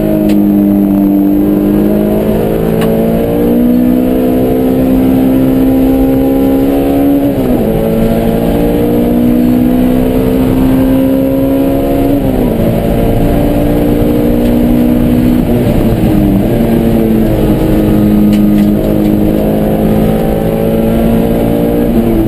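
Honda S2000's four-cylinder engine running hard under load, heard inside the stripped race cabin. Its note climbs steadily through each gear and drops sharply three times at the gear changes.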